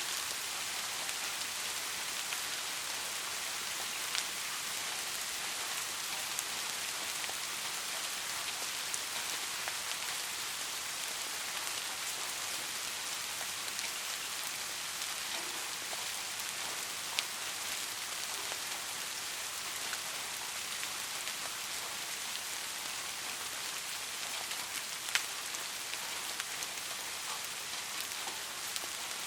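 Steady rain falling on a surface, an even hiss with a few sharper individual drop hits standing out now and then.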